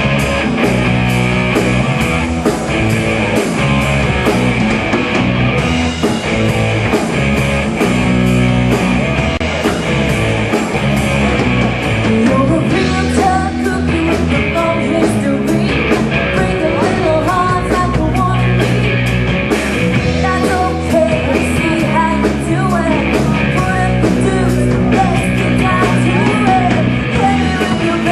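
Live rock band playing a fast song: electric guitar, bass and a drum kit with a steady driving beat.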